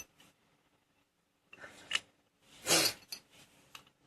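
Hand work on a motorcycle's front brake caliper: a brief scraping rub a little after halfway through, with a few small metallic clicks around it.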